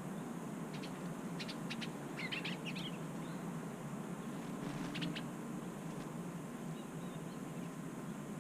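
Small songbirds calling with short high chirps, including a quick cluster of twittering notes about two to three seconds in and another pair of chirps about five seconds in, over a steady low background hum.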